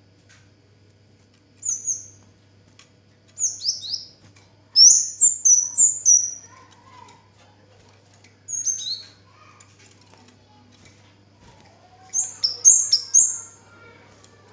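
Kemade (cigen) songbird singing in bouts of short, high, falling chirps, five bouts in all, the loudest about five seconds in. A faint steady low hum runs underneath.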